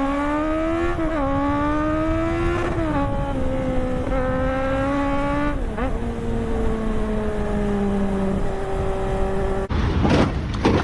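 Superbike engine on the road, its pitch climbing under acceleration and dropping back at gear changes about one and three seconds in, then holding and easing off. Near the end the engine tone stops and a burst of rough, rushing noise takes over.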